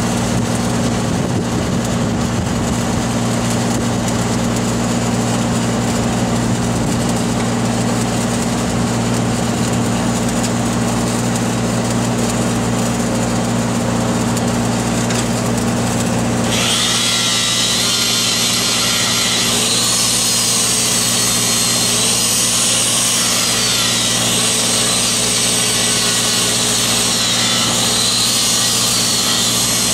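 Engine-driven welding machine running steadily. About halfway through, an angle grinder starts on the pipe, adding a high hiss and a whine that wavers in pitch as it bears on the weld.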